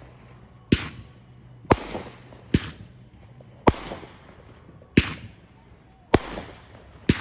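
Fireworks going off: seven sharp bangs about a second apart, each trailing off in a short echo.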